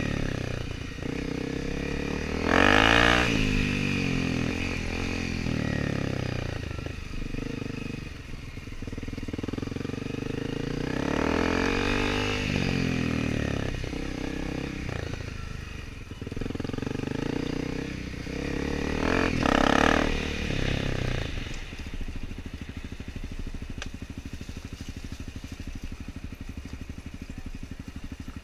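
Dirt bike engines revving up and down in repeated surges, their pitch rising and falling, loudest about three seconds in and again around twenty seconds in. For the last several seconds an engine runs steadily at a lower pitch, like an idle.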